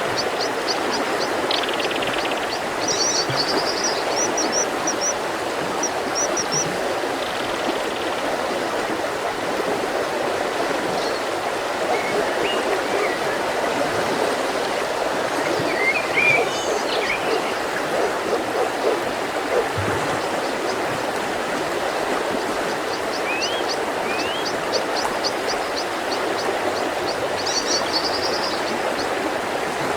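Mountain river flowing steadily over rocks, with birdsong above it: a small bird's high, rapid series of repeated notes near the start and again near the end, and scattered short chirps and rising whistles in between.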